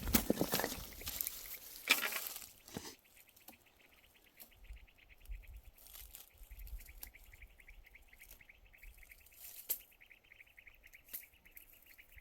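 Rustling and scuffing with sharp knocks for about the first three seconds, like footsteps or handling on rough ground. Then it turns quiet, leaving an insect's fast, steady, high trill with a few faint clicks.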